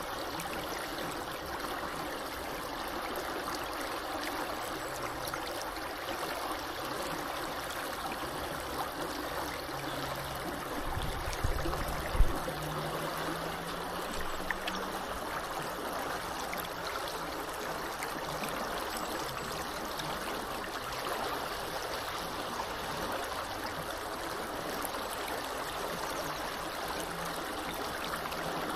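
Small river flowing steadily, an even rush of water. A brief low thump stands out about twelve seconds in.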